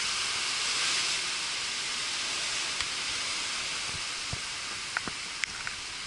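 Hurricane Irma's wind and rain hissing steadily, with a few short sharp ticks in the second half.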